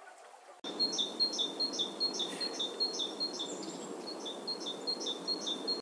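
Bird field recording: a bird repeating a short, high two-part chirp about three times a second over a steady background hiss of outdoor ambience. It cuts in abruptly less than a second in, replacing a fainter recording of softer bird calls.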